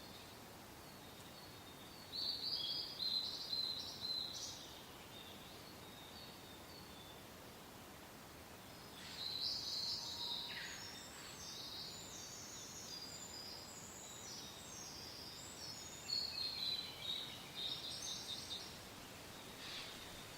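Songbirds singing in three bursts of quick chirping phrases, over a faint steady hiss of wind.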